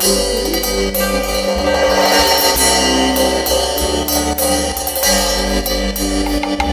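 Live cumbia band playing: a keyboard melody over a bass line, with regular cymbal strokes.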